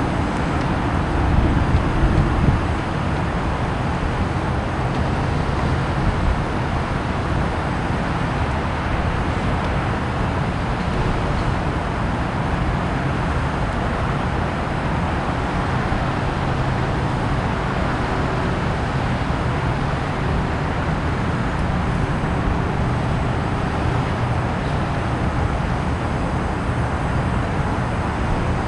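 Steady outdoor background noise: a low rumble under a hiss, swelling briefly about a second or two in.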